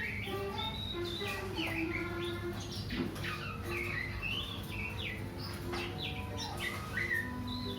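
Oriental magpie-robin (kacer) singing a continuous, varied song of short whistles and chirps, many of them sliding up or down in pitch.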